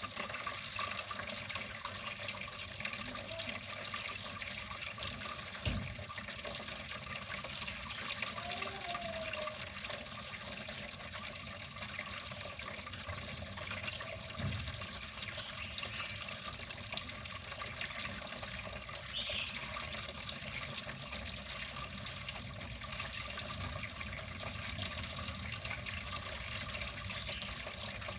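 Water flowing and splashing in a steady, unbroken stream.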